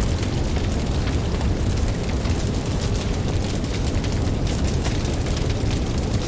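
Campfire crackling, with small pops scattered through a steady, deep rumble of ocean waves.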